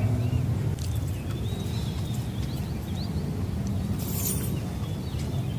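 Outdoor ambience: a steady low rumble with a few faint high bird chirps, and a short hiss about four seconds in.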